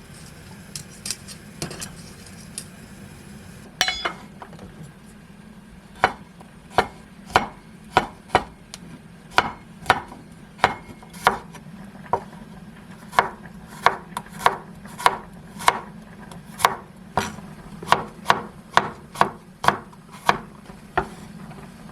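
Kitchen knife chopping on a wooden cutting board, steady strokes about two a second from about six seconds in, after a few light clicks and a single knock, over a low steady hum.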